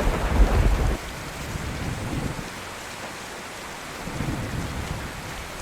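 Steady rain falling, with a low thunder rumble that dies away about a second in.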